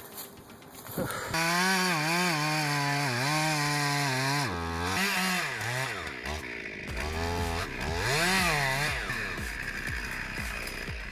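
Chainsaw running in a cut, starting about a second in; its engine note rises and falls over and over as it revs and dips.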